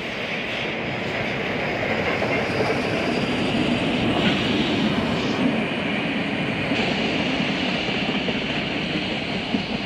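Heritage train hauled by NSW C32-class steam locomotive 3265 passing at speed, its wheels running over the rails with a steady rolling clatter. The sound grows louder over the first couple of seconds and then holds.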